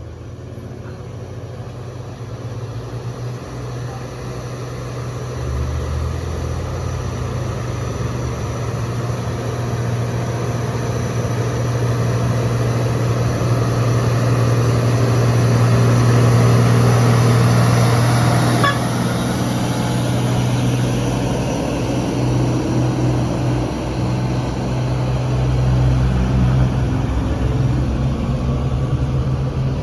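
Heavy diesel truck engine labouring under load up a steep climb: a low, steady drone that grows louder toward the middle and then eases a little.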